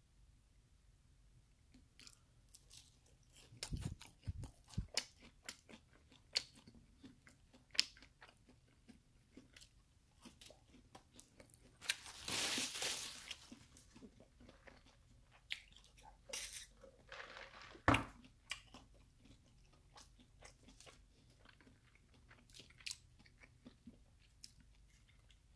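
Close-miked chewing of a breaded Chicken McNugget: crunchy bites and wet mouth sounds in irregular clicks. About halfway through there is a louder noisy stretch of about a second and a half.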